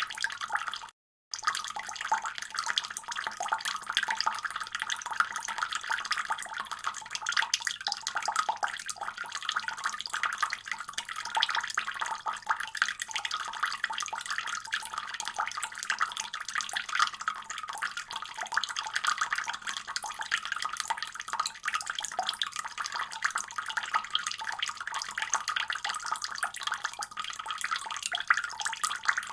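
Water running steadily from a faucet, a continuous splashing rush. It cuts out completely for a fraction of a second about a second in, then carries on unchanged.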